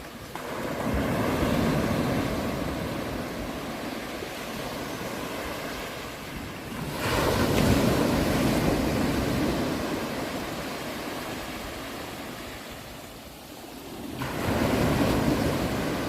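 Ocean waves breaking on a shore: three surges about seven seconds apart, each swelling quickly and then slowly fading as the water washes back.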